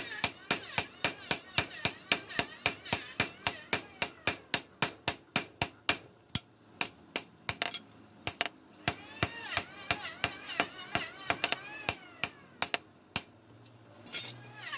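A hammer striking metal: a fast run of about four blows a second, then slower, spaced blows that stop shortly before the end. This is the hammering stage of shaping a chainsaw bar's steel into a machete blade.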